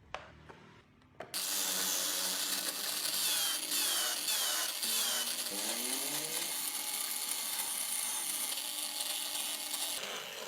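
Power tool cutting into wood, a whirring grind whose pitch shifts as the bit bites. It starts about a second in and stops shortly before the end.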